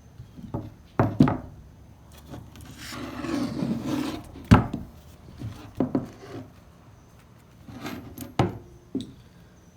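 An old single-shot shotgun with a cracked wooden stock being handled: a series of sharp knocks and clicks of wood and metal, the loudest about halfway through, with a stretch of wood rubbing and scraping before it.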